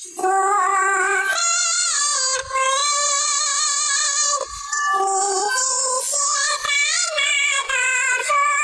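A high singing voice carrying a melody in long held, wavering notes with vibrato, in phrases of a second or two broken by short pauses.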